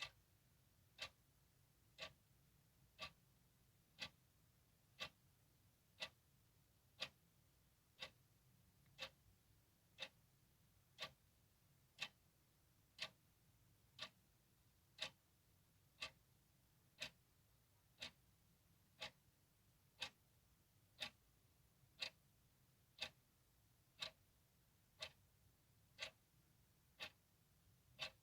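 Clock ticking steadily, one sharp tick a second, each tick the same.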